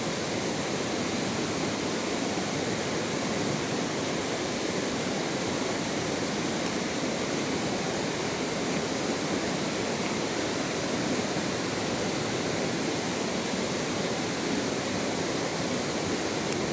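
Steady rushing of a flowing stream, an even wash of water noise that holds level without breaks.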